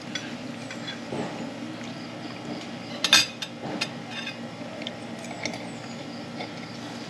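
Dishes and cutlery clinking at a meal, with one sharper clink about three seconds in, over a steady background hum.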